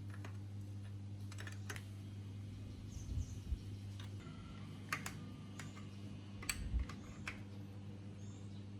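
Scattered light clicks and taps, several in quick clusters, over a steady low hum.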